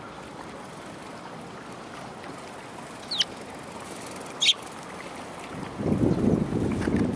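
Eurasian tree sparrow giving two short, falling chirps a second or so apart, over a steady hiss. From about six seconds in, wind buffets the microphone in gusts.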